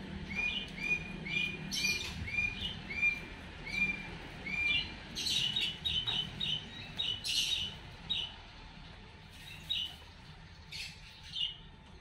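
Bird chirping: a run of about eight short, evenly spaced chirps, then a quicker burst of higher notes, with a few scratchy notes mixed in, thinning out toward the end.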